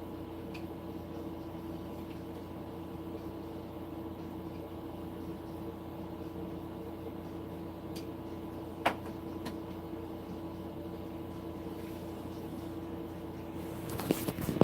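Steady mechanical hum with a constant low tone. A single sharp click comes about nine seconds in, and loud rustling handling noise starts just before the end.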